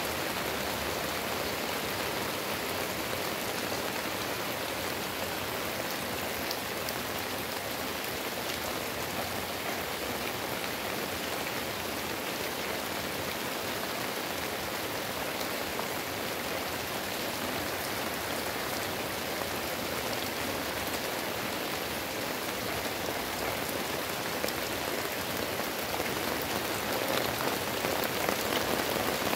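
Heavy rain falling steadily on tree leaves and a roof, a dense even hiss of drops that grows a little louder near the end.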